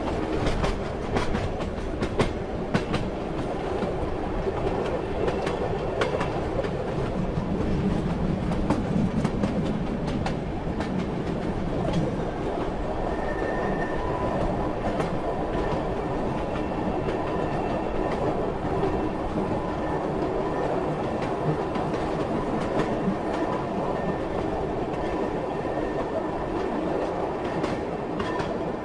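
Moving train: a steady rumble with the wheels clacking over the rail joints. The clacks are sharpest and most frequent in the first dozen seconds, and a faint steady whine comes in later.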